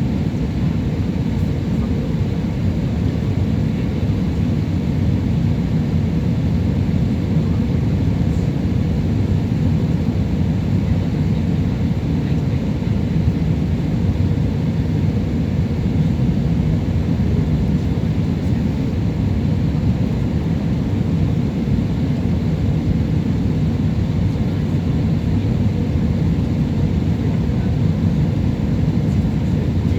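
Steady cabin roar of a Jetstar Japan Airbus A320 on approach: engine and airflow noise, deep and even, with a faint steady hum above it.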